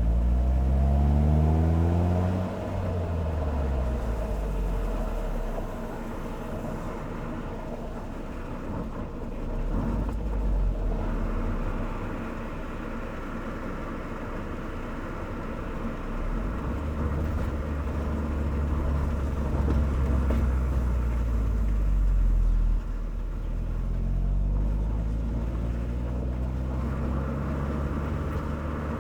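Car engine and exhaust under acceleration: it rises in pitch, drops sharply at a gear change about two and a half seconds in, then runs more steadily, and climbs in pitch again near the end.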